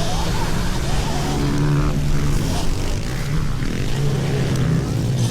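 Pit bike engines running with a steady drone over a noisy hiss.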